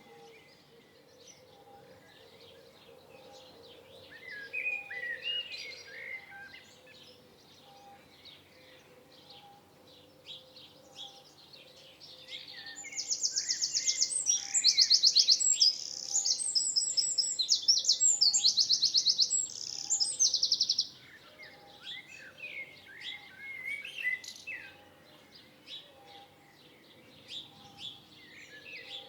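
Several songbirds singing and chirping, with warbled phrases near the start and again after the middle. About a third of the way in, one bird sings loudly for around eight seconds in fast, evenly repeated high trills.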